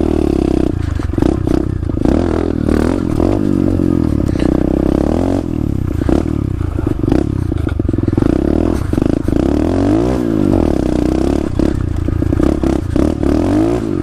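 SSR125 pit bike's single-cylinder four-stroke engine running while being ridden, its revs rising and falling again and again with the throttle. Frequent short knocks and rattles run through it.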